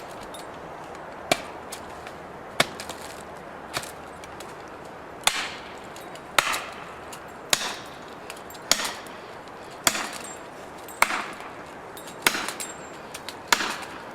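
Repeated sharp chopping blows at an even pace, one a little more than every second, eleven in all; the later ones are followed by a short rattling tail.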